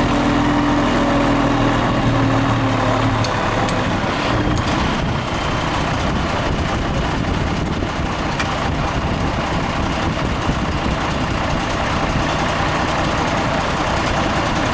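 Heavy vehicle engine running steadily, likely the machine lifting the boats out. There is a steady hum for about the first three seconds, then an even rumble.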